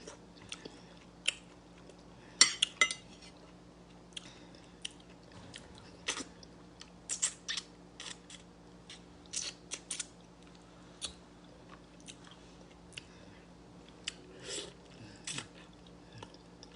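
Close-up mouth sounds of a person eating a stewed fish head: chewing and biting, with many short, irregular wet clicks and smacks.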